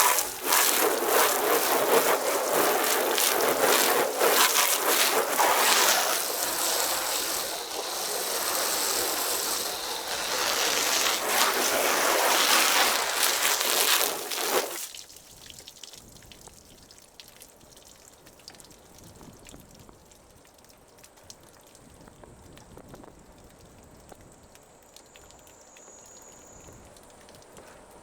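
Water from a hose nozzle spraying onto a car's body panels, a loud steady hiss that cuts off suddenly about fifteen seconds in, leaving only faint sounds.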